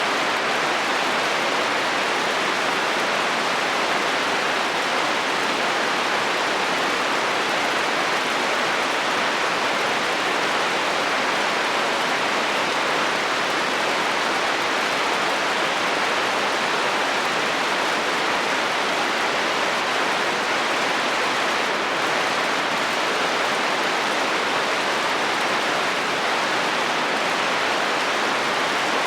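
Heavy rain falling on a metal roof, a steady, even hiss.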